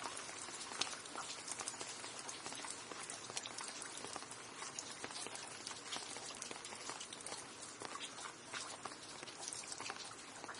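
Steady rain, with many separate drops pattering and ticking against a hard surface.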